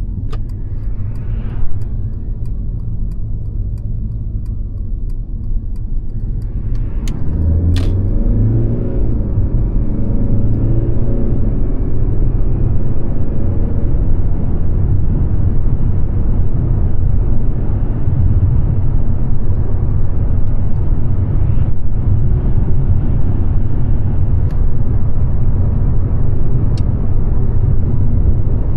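Mercedes-Benz C-Class (W206) four-cylinder engine and road noise while driving. About eight seconds in, the engine note rises and the sound gets louder as the car accelerates, then runs on steadily. A regular light ticking is heard through the first seven seconds.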